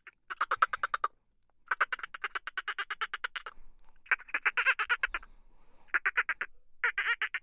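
An animal's rapid chattering calls, about ten pulses a second, in five bursts with short pauses between them.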